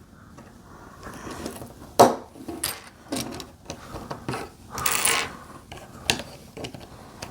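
Plastic Lego pieces clicking and rattling as they are handled and pressed together: a few sharp separate clicks, with a brief rattle of loose pieces about five seconds in.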